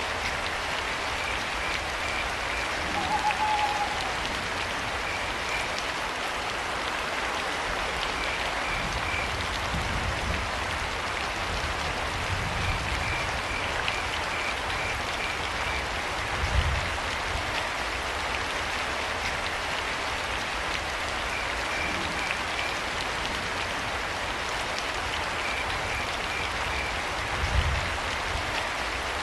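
Steady rain falling, with crickets chirping in short repeated pulse trains every few seconds. A brief call sounds about three seconds in, and a few low thumps come through, the loudest about halfway and near the end.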